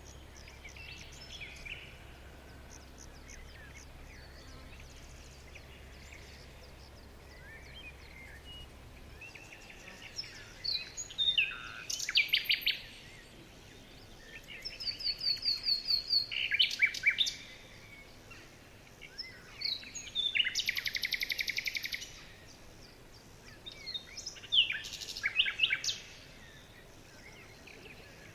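Songbirds singing: faint scattered calls at first, then from about ten seconds in several louder phrases made of rapid trills and quick falling notes, one bird answering another.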